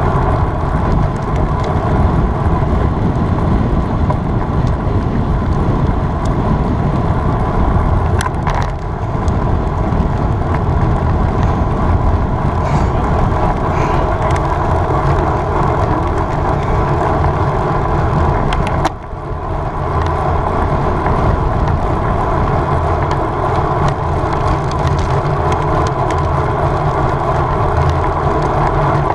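Wind rushing over the microphone of a camera on a road bike at racing speed, mixed with tyre noise on the road. The noise is loud and steady, with a brief dip about two-thirds of the way in.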